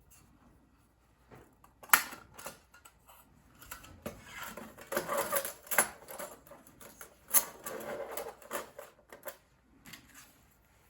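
Thin titanium plates of a hinged mini fire stand clicking and clattering as they are handled. A sharp click about two seconds in, then a run of quick clatter through the middle, with another sharp click partway through it.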